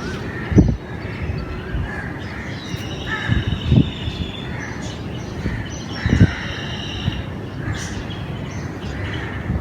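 Birds calling over and over, harsh repeated calls over a steady background hum, with three dull thumps standing out as the loudest sounds.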